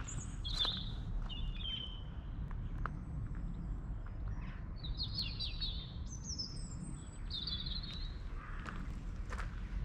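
Songbirds chirping and singing in short, high trilled phrases over a steady low rumble, with a few footsteps crunching on gravel.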